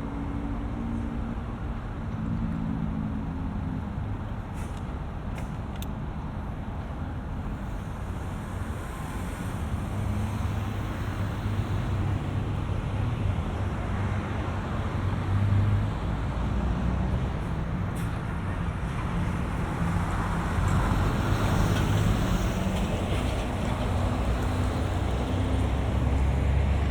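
Road traffic running close by: a steady rumble of engines and tyres, swelling as heavier vehicles pass about ten seconds in and again about twenty seconds in.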